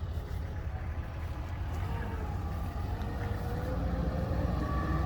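Steady low rumble of outdoor background noise, with a faint droning tone that climbs slightly in pitch over the last couple of seconds.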